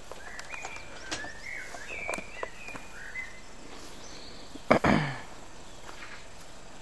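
Garden birds chirping and singing in short calls over a steady outdoor background hiss, with one brief louder thump about five seconds in.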